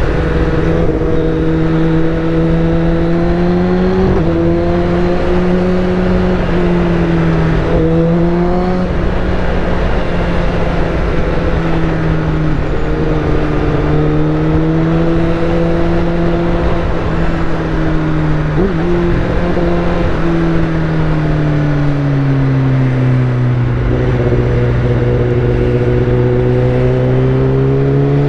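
Kawasaki ZX-10R's inline-four engine, heard through a full Akrapovic titanium exhaust, running at steady cruising revs with small rises and falls in pitch as the throttle changes. Near the end the note sinks lower for a few seconds, then climbs again.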